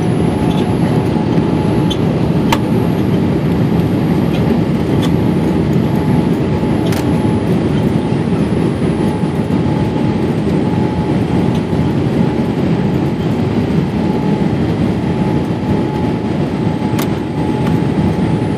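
Steady roar of engine and airflow noise inside a Boeing 787-8 airliner's cabin, with a faint steady whine and a few light clicks.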